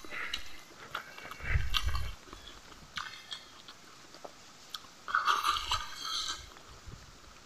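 Close-up eating sounds: a person chewing a mouthful of rice and fish curry with some crunching. The noise comes in irregular bursts, the loudest about one and a half seconds in and again about five seconds in.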